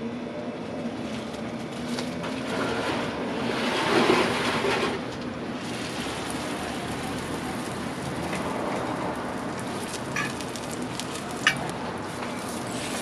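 Hotteok dough sizzling in hot oil on a griddle, a steady crackling hiss that swells louder about four seconds in. Two sharp clicks sound near the end, as the steel hotteok press comes down on the dough.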